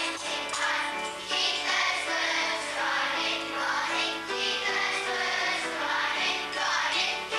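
A group of children singing a song together over a steady instrumental accompaniment.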